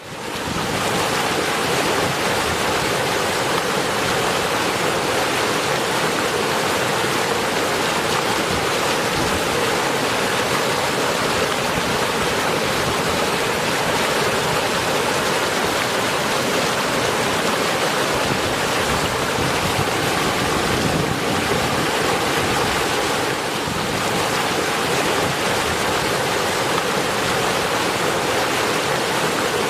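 Steady heavy rain, an even rushing hiss, fading in quickly from silence at the very start.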